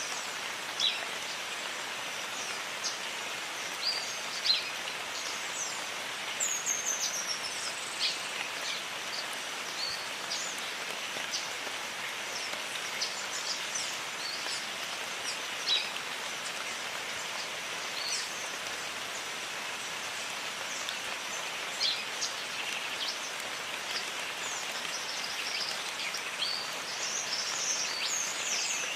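Steady rain falling, with birds giving scattered short, high chirps and quick falling whistles over it, and a few louder drip-like ticks.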